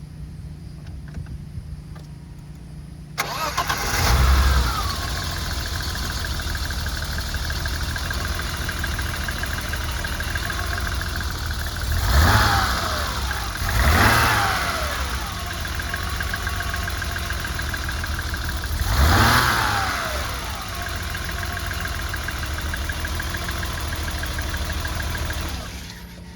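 1989 BMW 325is's 2.5-litre straight-six catching on a cold start about three seconds in, flaring up, then settling to a steady idle. It is blipped three times, each rev rising and falling back to idle, and the engine stops near the end.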